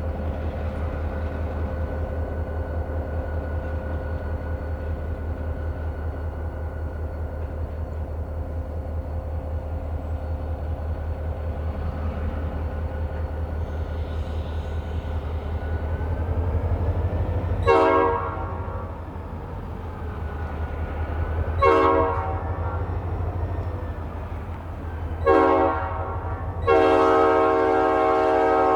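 Diesel locomotive engines of an Escanaba & Lake Superior freight train rumbling steadily, then the locomotive horn sounds three short blasts about four seconds apart and a long, loud blast held near the end.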